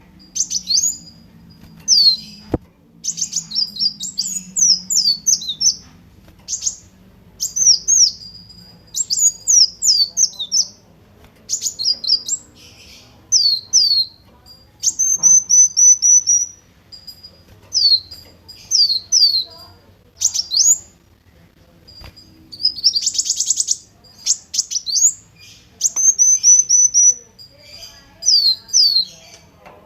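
Brown-throated sunbird (kolibri wulung) singing: quick runs of high, sharp notes that sweep downward, with a brief buzzy trill a little past the middle.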